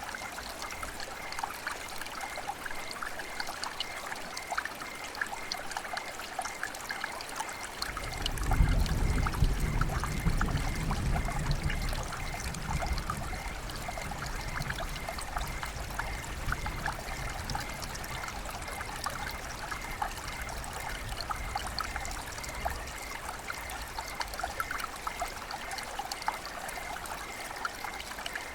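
Rain dripping over steadily trickling, flowing water, with many small drip ticks. A low rumble starts suddenly about eight seconds in and fades over some four seconds.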